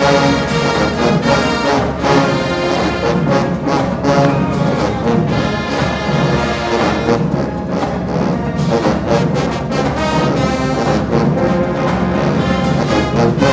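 University marching band playing at full volume: a brass section of trombones and trumpets carrying the tune over a steady drum beat.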